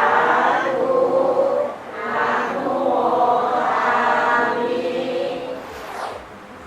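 A group of voices chanting together in unison, a Thai Buddhist chant sung in long held notes, with a brief break about two seconds in and fading near the end.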